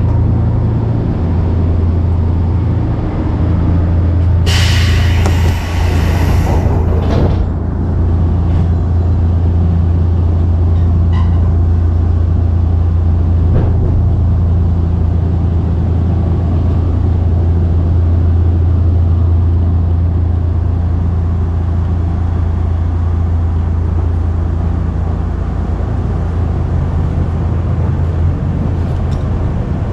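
Inside a Semboku Rapid Railway commuter train running along the line: a steady low drone of the running gear and wheels on the rails. A loud hiss lasts about three seconds, starting about four and a half seconds in.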